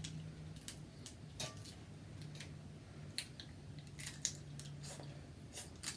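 Quiet eating sounds: a dozen or so small, sharp clicks and smacks scattered irregularly, over a faint steady hum.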